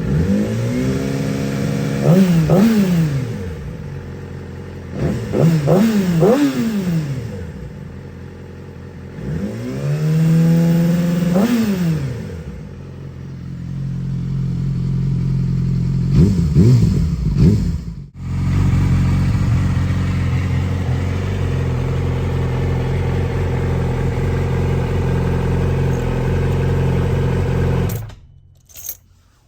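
2007 Yamaha YZF-R6's 599 cc inline-four revved through a GYTR exhaust: several throttle sweeps that rise and fall, then settling to a steady idle with a few quick blips. The sound cuts off shortly before the end.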